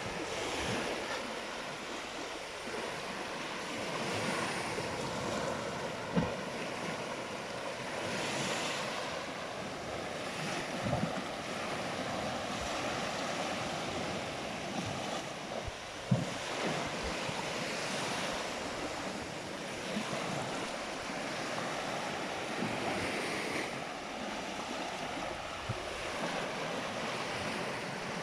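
Sea surf washing in, swelling and fading every few seconds, with wind on the microphone. Two brief knocks stand out, about six seconds in and again near sixteen seconds.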